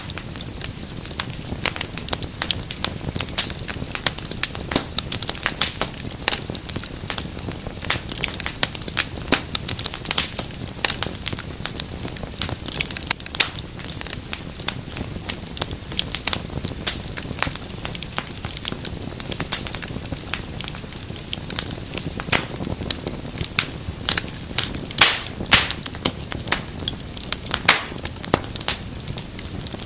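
Wood fire crackling steadily, with dense irregular snaps and pops over a low rumble of flame; a few louder pops come about 25 seconds in.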